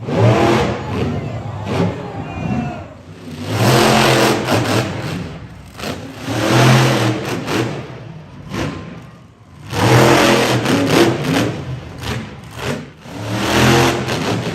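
Monster truck engine revving hard in repeated surges: about five throttle bursts a few seconds apart, each climbing and falling back.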